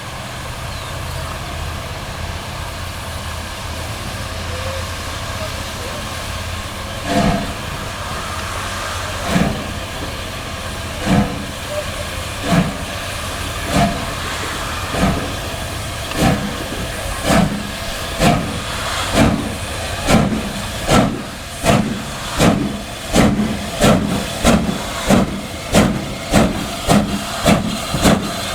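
Steam locomotive starting away: a steady hiss of steam over a low rumble, then about seven seconds in its exhaust beats begin, slow at first and quickening steadily to about two a second.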